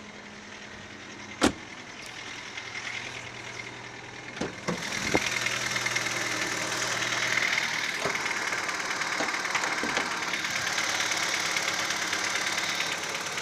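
Daewoo Nexia 8-valve engine running with an intermittent knock that the owner says is not the hydraulic lifters or valves and that comes only at certain revs, around 1100 rpm when warm. A sharp click about a second and a half in, a few knocks near four and a half seconds, then the engine sound turns louder and stays so.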